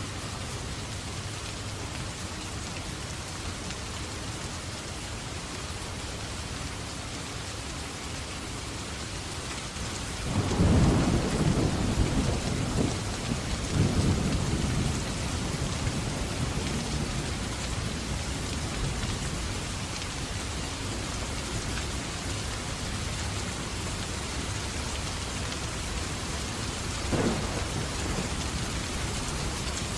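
Steady rain hissing, with a loud rumble of thunder starting about ten seconds in and rolling on for several seconds. A shorter, sharper thunder clap comes near the end.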